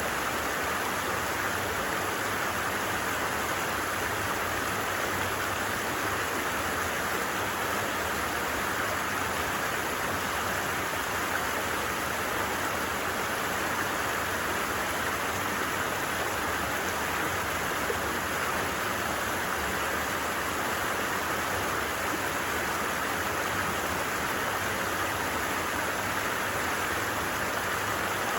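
A creek's flowing water, an unbroken steady rush.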